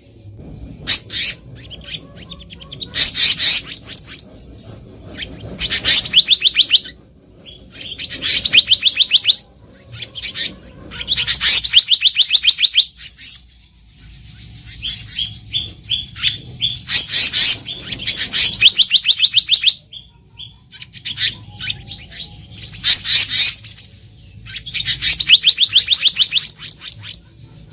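Black-naped monarch singing: rapid, evenly spaced high notes run into short trills about a second long, repeated every two to three seconds.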